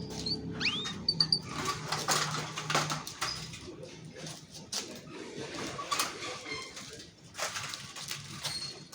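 Canary singing: a run of short chirps and clicking trill notes, with a quick rising whistle near the start.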